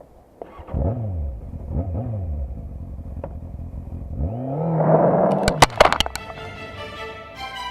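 Motorcycle engine blipped twice, each rev falling away, then revved up and held for about two seconds. A few sharp cracks follow, and music comes in near the end.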